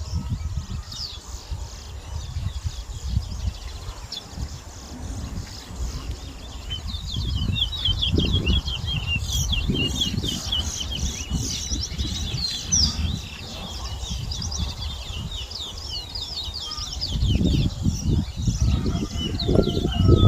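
Towa-towa seed finches singing in a song contest: quick runs of high, chirping notes, thickest from about a third of the way in. A low, uneven rumble runs underneath.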